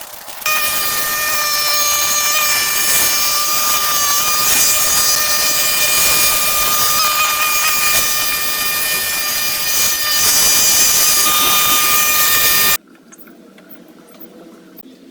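A small engine-driven power tool running at steady high speed with a high whine, cutting off suddenly near the end.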